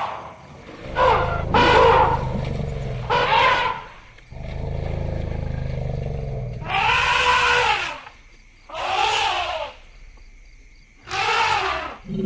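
Elephants trumpeting: a series of about six loud, high calls, each arching up and down in pitch, over a low steady rumble.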